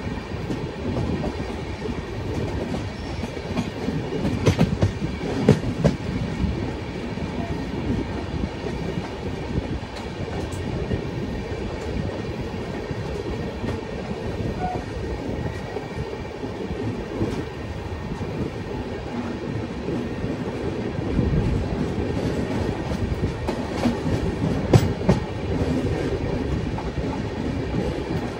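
Train running along the track: a steady low rumble with the wheels clattering over rail joints and a few sharp clicks, a couple in the first quarter and one near the end.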